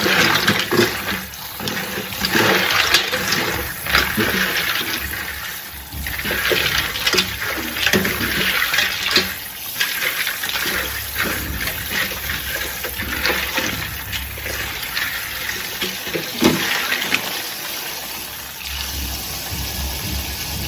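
Water pouring and splashing into a bowl to make an ice-water bath for a boiled chicken, with many small knocks and clinks throughout. The sound cuts off suddenly at the end.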